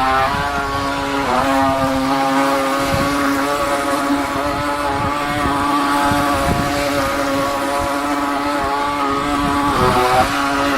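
Battery-powered Venom Straight Jacket RC boat's electric motor running with a steady high whine, its pitch dipping briefly about a second in and again near the end as the throttle eases off.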